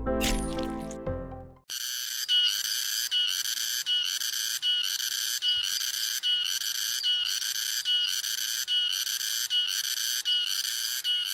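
An intro tune stops about a second and a half in, and a cicada's high, steady buzzing song takes over. The song pulses evenly, with a short dip about every three quarters of a second.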